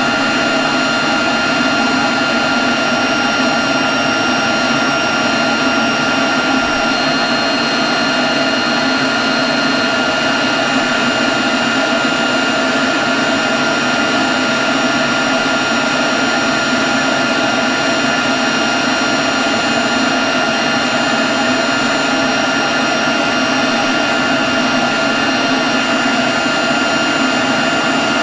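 Leaf blower running at a constant speed, a steady rush of air with a high whine held on one pitch.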